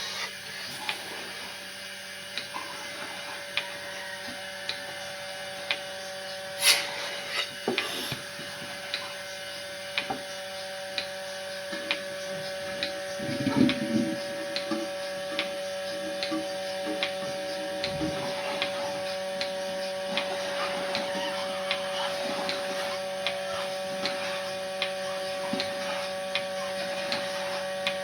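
A steady machine hum with short regular ticks about once a second, and a single louder knock about seven seconds in.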